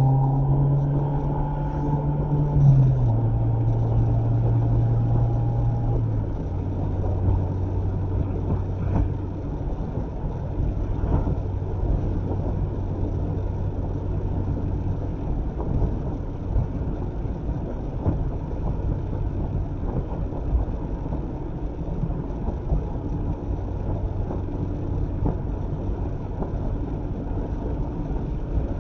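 Mazda MX-5 ND's four-cylinder engine and road noise heard from inside the car while driving; the engine note steps down in pitch twice in the first few seconds, then holds steady at cruise.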